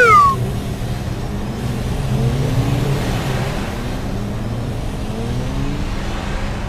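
Car engine running, rising in pitch a couple of times as it accelerates. It opens on the tail of a falling cartoon-style sound-effect tone.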